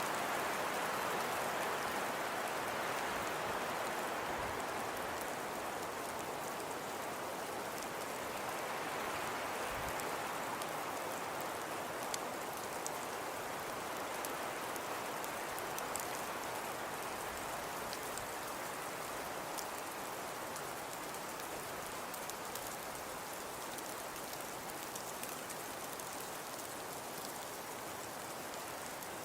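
Steady soft hiss of falling precipitation with faint scattered ticks, like snow or sleet pattering on surfaces. The hiss swells and eases slowly.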